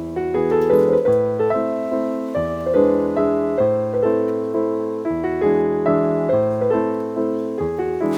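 Background music: piano playing a steady run of notes, each struck and fading.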